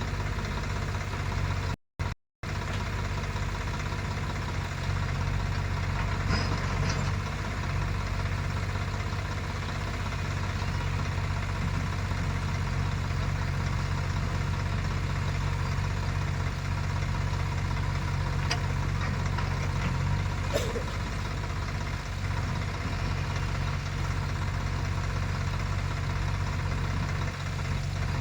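Heavy diesel engine running steadily at a low, even drone, with a few faint clicks. The sound cuts out briefly twice about two seconds in.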